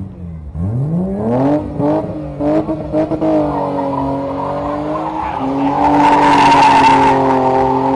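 Car engine revved up sharply about half a second in and held at high revs, wavering a little. It gets louder and noisier, with a hiss, between about six and seven seconds in.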